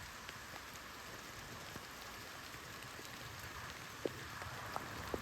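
Steady rain falling, a soft even hiss with scattered drops ticking, and one sharper tap about four seconds in.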